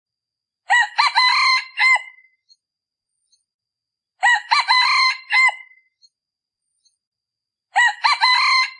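Male red junglefowl (decoy cock) crowing: three short crows about three and a half seconds apart, each much alike, the last one still going at the end. This is the call used to lure wild junglefowl cocks in the cool season.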